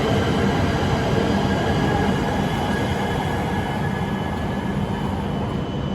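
Shinkansen train pulling away from the platform: a steady rolling rumble with a thin steady whine, slowly growing quieter as it leaves.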